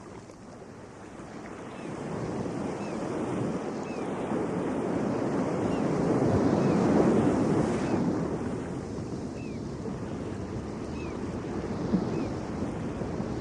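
Atlantic Ocean surf: a wave swells and breaks about halfway through, then washes back down to a steady rush.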